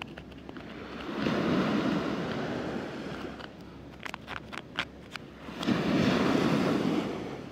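Waves washing up a sandy beach: two surges that each swell and fade, about four seconds apart, with a few sharp clicks in the lull between them.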